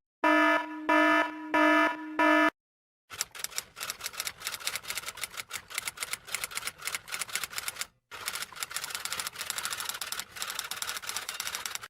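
Four short pitched tones in quick succession, then rapid typing clatter, like a typewriter, with a brief pause about two-thirds of the way through.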